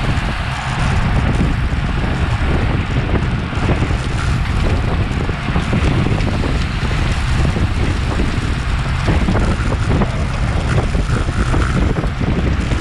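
Steady, loud wind noise buffeting an action camera's microphone on a road bike at racing speed, a low rumbling rush of air with no let-up.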